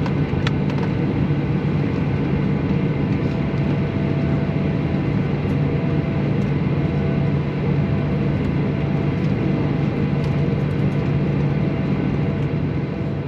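Steady drone of a Boeing 737's engines at idle and cabin air, heard inside the cabin as the airliner taxis to its gate.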